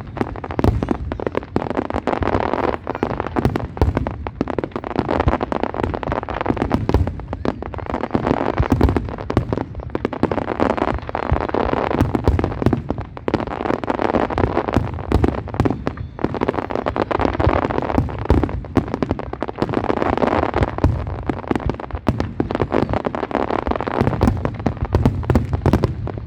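Fireworks display in a continuous barrage: a rapid, dense run of cracks and bangs overlapping one another, with no break.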